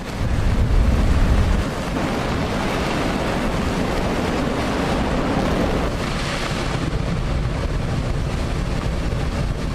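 Large ocean waves surging and breaking, with wind buffeting the microphone; a heavy low rumble in the first second and a half, then a steady rushing wash.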